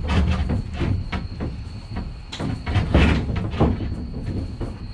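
Irregular knocks, clunks and scraping of a long panel being shifted and settled into place against plywood hull forms, loudest in a cluster between two and three and a half seconds in.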